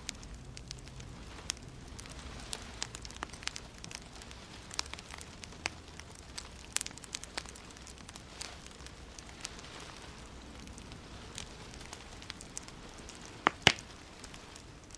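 Wood fire crackling in a fireplace: irregular sharp pops and snaps over a low steady hiss, with two loud pops close together near the end.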